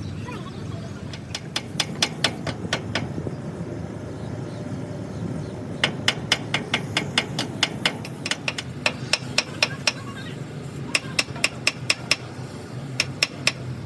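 Hammer striking metal in quick runs of sharp blows, about four a second, with pauses between the runs, over a low steady rumble.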